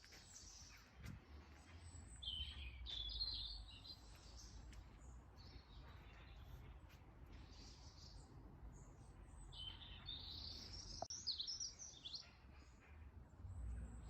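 Songbird singing faintly in two short bursts of quick, high, varying notes, one about two seconds in and a longer one about ten seconds in, over a steady low rumble.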